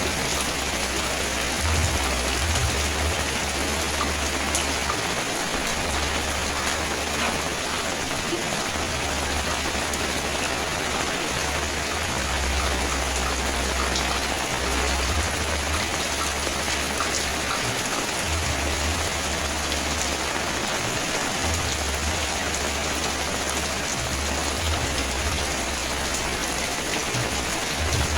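Steady rain falling and pattering on surfaces, a dense even hiss throughout, with a low rumble coming and going every few seconds.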